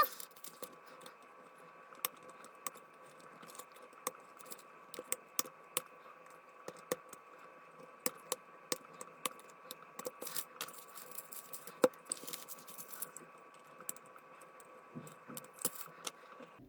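Irregular small clicks and scrapes of plastic and metal as wire terminals are released from their pins and pulled out of a Ford Mondeo Mk3 engine-bay fusebox.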